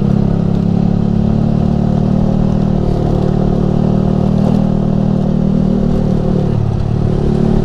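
Yamaha R15 V3's 155 cc single-cylinder engine running through an aftermarket Ronin Musashi exhaust, holding fairly steady cruising revs.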